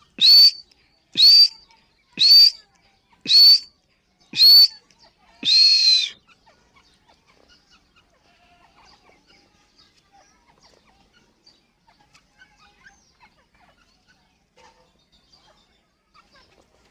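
Grey francolin (teetar) calling: six loud, shrill calls about a second apart, the sixth one longer and drawn out.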